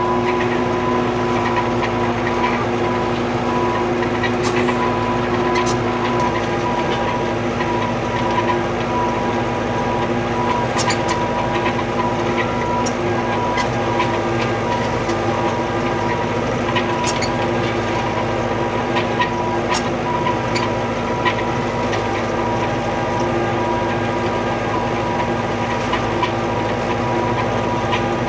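Old, high-hours tractor engine running steadily while working with the vineyard brush puller heads and mower engaged, heard from inside the cab. It holds several steady tones, with occasional sharp clicks and rattles scattered through.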